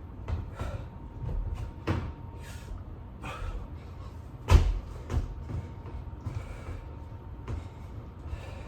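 Irregular thumps and scuffs of a person doing burpees with push-ups on the floor, the heaviest thump about four and a half seconds in.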